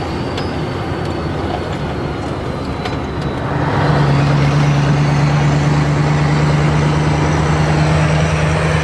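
Scania V8 diesel truck engine running. About three and a half seconds in it grows louder and settles into a steady, deep drone.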